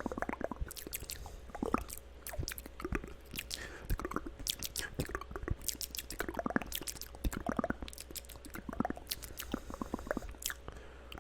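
Layered ASMR mouth sounds: wet clicks, smacks and squishy pops in an irregular stream.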